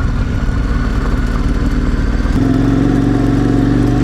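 KTM 1090 Adventure R's V-twin engine running steadily under way on the motorcycle. About two and a half seconds in, its note changes and gets a little louder.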